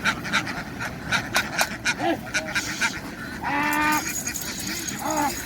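A flock of domestic ducks quacking, many short quacks close together, with one longer, louder quack about three and a half seconds in and another short one near the end.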